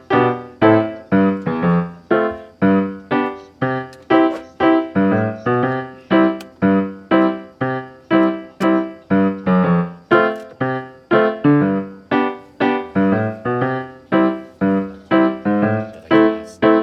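Background music: a bouncy tune of short, detached piano or keyboard notes, about two to three a second.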